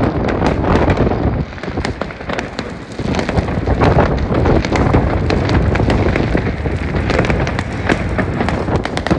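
Many fireworks and firecrackers going off at once: a dense, continuous crackle of sharp cracks and bangs. It eases briefly about one and a half seconds in and picks up again around three seconds in.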